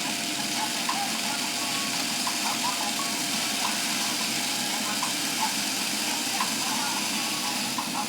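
Bird seed cleaning machine running steadily: an even motor hum and whir, with short high chirping sounds scattered through it.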